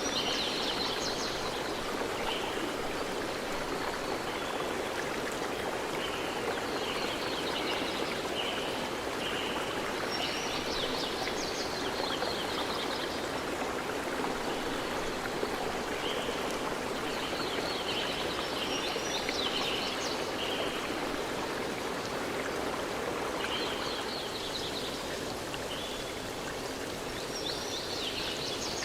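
A stream flowing with a steady rush of water, with birds singing in short bursts of high chirps every few seconds.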